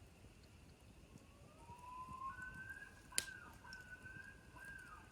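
Common loon calling: a long call that rises, then holds high with a repeated wavering dip and lift. A single sharp click sounds about three seconds in.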